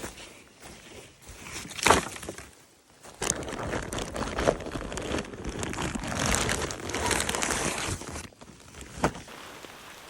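Crinkly material rustling as it is handled: a short burst about two seconds in, then several seconds of continuous crinkling, ending with a sharp click near the end.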